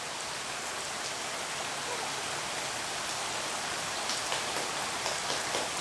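Heavy rain falling in a steady hiss, with a few sharper taps from about four seconds in.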